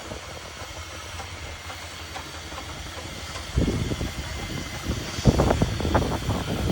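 Steam engine running with a steady hiss and low rumble, growing louder and more uneven about halfway through.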